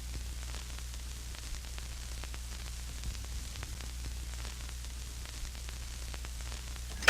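Steady static hiss over a low hum, with faint scattered crackles; a sudden loud sound breaks in at the very end.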